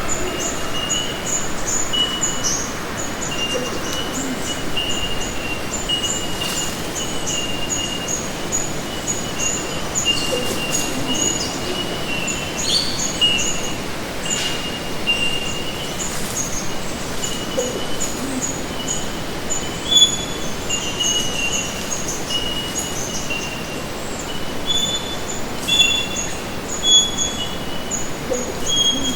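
Steady chorus of short high chirps at two pitches, repeating a couple of times a second, over a constant hiss.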